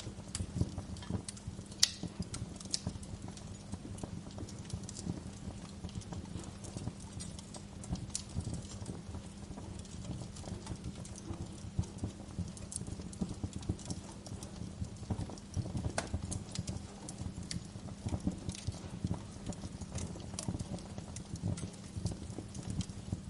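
Wood fire crackling in a fireplace: irregular snaps and pops over a low rumble of flame, with sharper pops about two seconds in and again past the middle.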